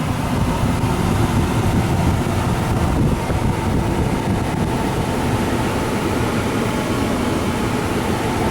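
Ford F350's 6.8L V10 engine running steadily, with wind on the microphone; a faint steady whine enters about two seconds in.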